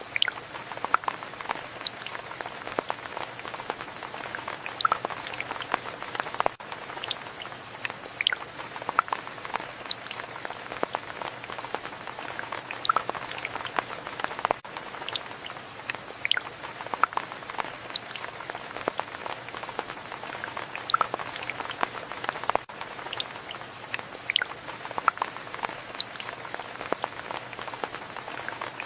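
Steady rain falling, with many separate drops ticking sharply above the even hiss.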